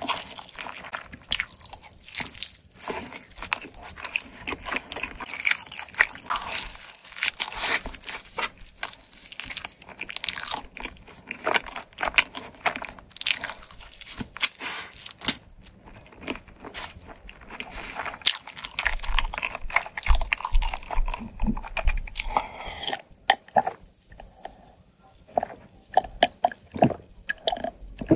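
Close-miked eating: steady chewing with crunchy bites and wet mouth sounds, starting on a piece of barbecue chicken steak. The crunching thins out near the end.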